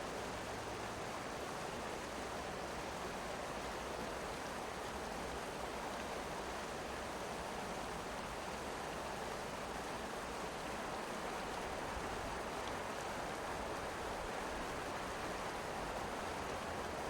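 Steady rushing of a mountain river, with heavy rain, as an even, unbroken wash of water noise.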